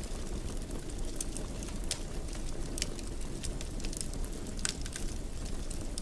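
Wood fire burning in a fireplace: a steady low rumble of the flames with scattered crackles and pops, a few sharper ones standing out.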